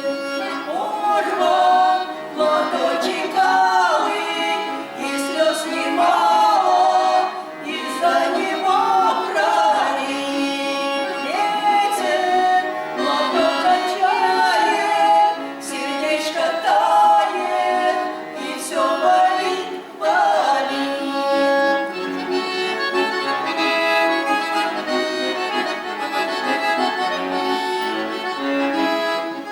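Accordion playing a melody with voices singing over it; the singing stops about two-thirds of the way through and the accordion plays on alone.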